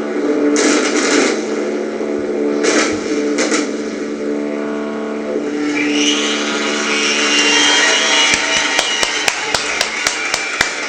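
Fireworks finale: a few loud bursts in the first four seconds, a dense crackling hiss building from about six seconds in, then a rapid run of sharp bangs, about four or five a second, near the end. A steady held tone runs underneath, and the sound is re-recorded from computer playback.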